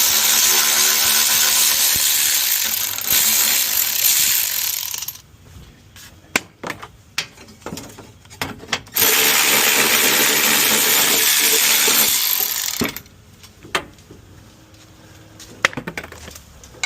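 A cordless power driver running in two long stretches, about five seconds and then about four seconds, backing out screws. Between the runs come scattered clicks and clinks of loose screws and parts being handled.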